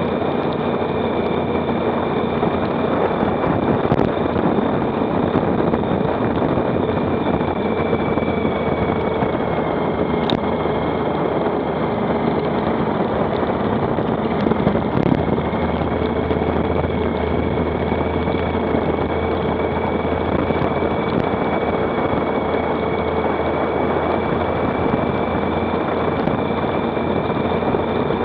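Motorcycle riding at a steady speed: the engine running with rushing wind noise, holding an even level with only slight changes in the engine note.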